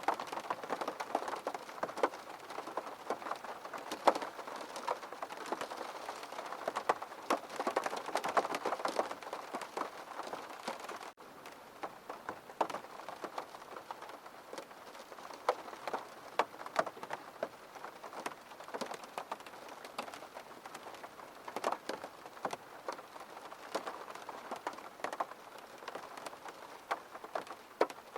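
Rain pattering on a window pane: a dense, steady spatter of drops ticking against the glass. About eleven seconds in, the level drops suddenly, and the patter goes on quieter and sparser.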